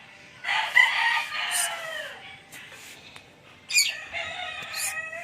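A rooster crowing twice, each crow a drawn-out call of about a second and a half that drops in pitch at the end.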